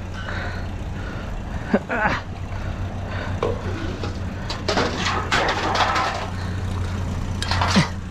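A vehicle engine idling steadily, with scattered knocks and clatter, the loudest of them about five to six seconds in and again near the end.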